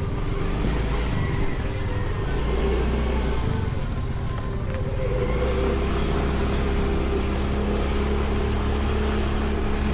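Motorcycle engine running steadily while being ridden, heard from on board, with a low rumble that grows stronger about halfway through.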